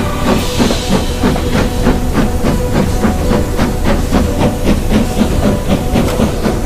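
Steam locomotive chuffing and hissing, with an even exhaust beat of about three puffs a second.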